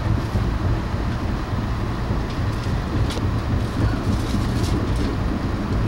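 Amtrak passenger train rolling along, heard from inside the coach: a steady low rumble with a few faint sharp ticks from the car.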